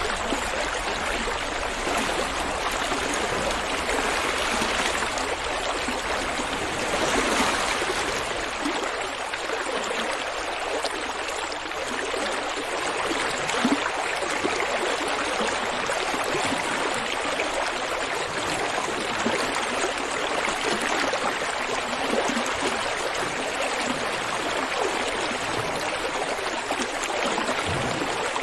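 River water flowing over rocks in a steady rushing, gurgling stream.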